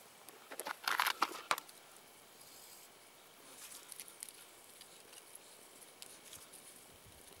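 Twigs and tinder being handled and broken while a campfire is started: a short flurry of rustling and snapping about a second in, then scattered faint crackles and ticks.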